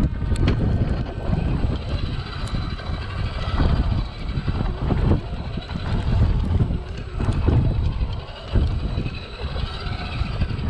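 Traxxas TRX-4 RC crawler's small electric motor and gears whining faintly over a heavy, uneven low rumble on the microphone, with a few small knocks.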